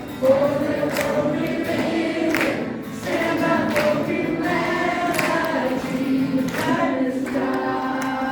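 A group of voices singing a song together, like a choir, with sustained sung notes.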